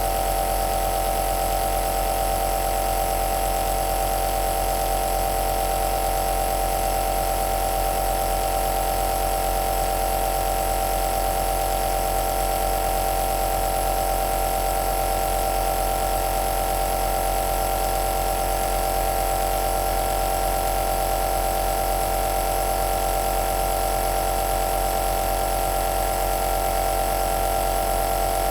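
Home nebulizer compressor running steadily: an unbroken mechanical hum with a strong mid-pitched tone over a soft hiss.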